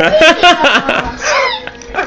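Pet parrot calling loudly in a quick run of wavering, changing squawks and chatter, agitated by a ruler in its cage.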